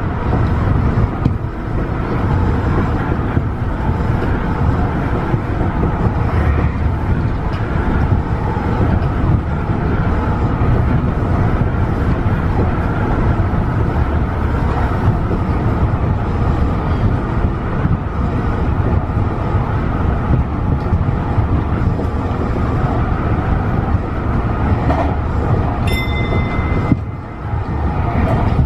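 Tobu 50090-series electric train running at speed, a steady rumble of motors and wheels on the rails. A brief high tone sounds near the end.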